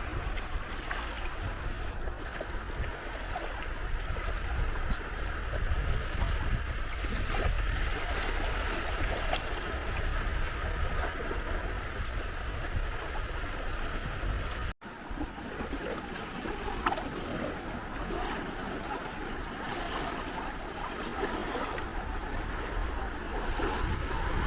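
Gentle sea waves washing steadily against the shore, with a brief drop-out in the sound about fifteen seconds in.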